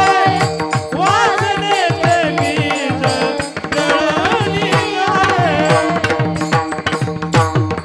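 Devotional kirtan music: a voice singing a bending melody over steady held notes and a regular beat of hand-drum strokes.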